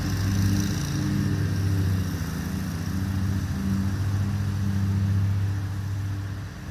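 Lawn mower engine running steadily at one pitch, its loudness rising and falling slightly.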